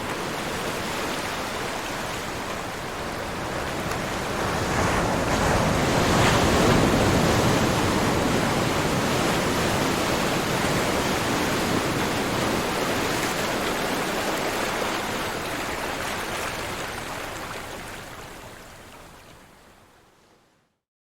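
Ocean surf: a wave washing in, building to a peak a few seconds in, then slowly receding and fading away near the end.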